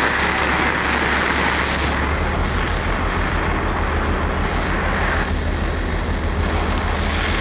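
Radio receiver tuned off-station: steady loud static hiss with a low electrical buzz of interference, which takes on a faster pulsing beat about two seconds in.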